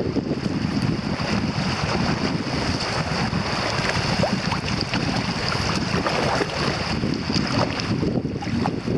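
Wind buffeting the microphone in a dense, fluttering low rumble, over a steady hiss of river water moving past a kayak.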